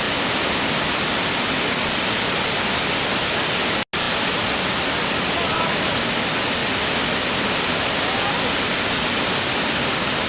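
Natural waterfall: a steady, even rush of falling water, broken by a split-second dropout to silence about four seconds in.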